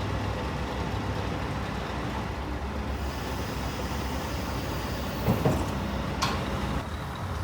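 Scania R730's V8 diesel engine running steadily. A couple of clunks come a little after five seconds in, and a short sharp click follows about a second later.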